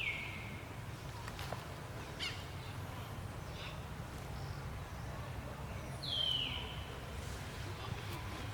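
Two short, high animal calls falling in pitch, one at the start and one about six seconds in, over a steady low rumble.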